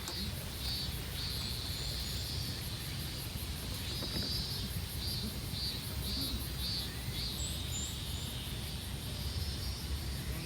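Insects trilling in a high, steady drone that breaks at times into short pulses, over a low outdoor rumble, with a couple of faint high chirps about seven seconds in.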